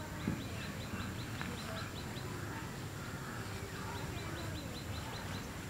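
A bird calling in two quick runs of short, high, repeated chirps, about six a second, one near the start and one in the last two seconds, over steady outdoor ambience. A single soft thump comes just after the start.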